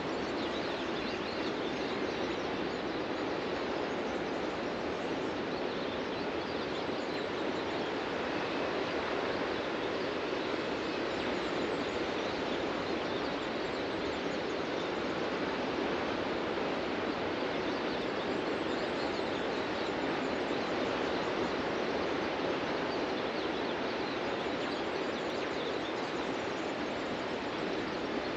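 Ocean surf breaking and washing up a beach: a continuous, even rush of waves with gentle swells in loudness.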